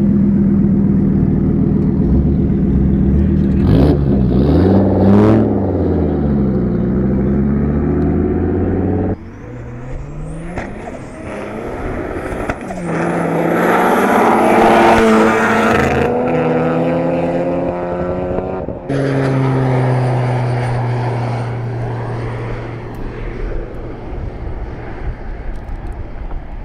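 Drag race car engines in a string of short cuts: a loud engine running and revving up and down, then others revving with rising pitch as they accelerate hard, and a final one running steadily and fading.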